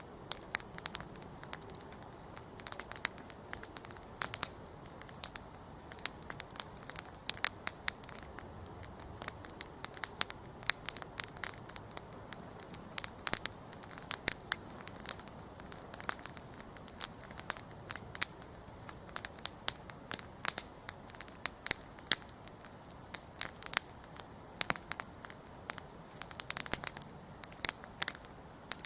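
Wood campfire crackling and popping, irregular sharp snaps several times a second over a soft steady hiss of the flames.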